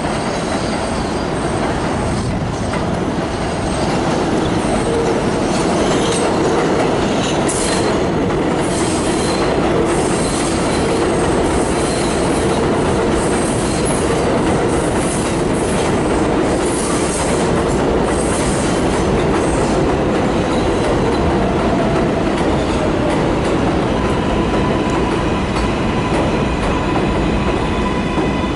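Train running past on steel rails, with steel wheels squealing on and off in the middle stretch, and steady tones coming in near the end.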